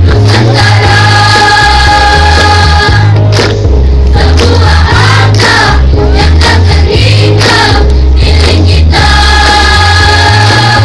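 A school students' choir singing loudly, holding long sustained notes over a heavy low bass.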